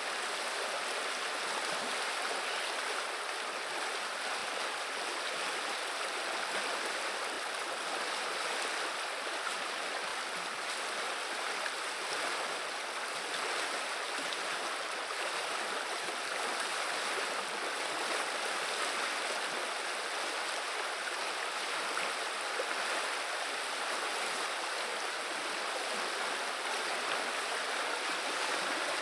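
River water running and babbling, a steady rushing noise with no break.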